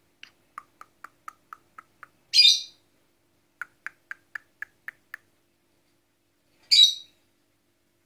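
A bird calling: a run of short, evenly spaced chirps, about four a second, then a loud harsh squawk. The pattern repeats, with the second squawk near the end.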